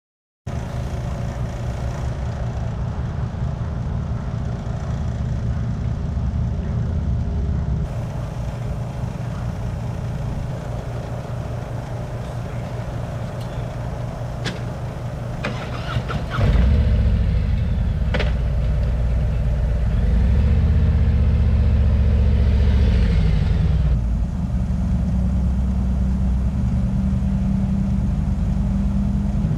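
Motorcycle engine running steadily. About halfway through it gets louder, and then its pitch rises and falls once, as when revved or accelerating.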